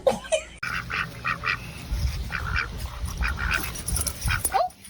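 Ducks quacking, a quick run of short calls repeated several times a second, with rumbling low noise underneath.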